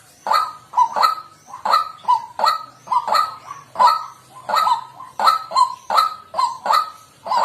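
White-breasted waterhen calling a continuous series of harsh, croaking "kwak" notes, about three a second. This is the species' loud territorial calling, the call bird-trappers play to lure waterhens.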